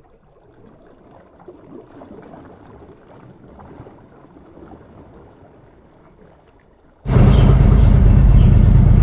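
Faint background noise, then about seven seconds in a sudden jump to a loud, steady low rumble of motorcycle engine and wind noise, as heard on a riding motorcycle.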